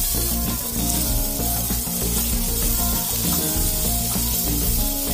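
Oil sizzling steadily in a wok as pieces of boiled green banana fry, with a metal spatula stirring them.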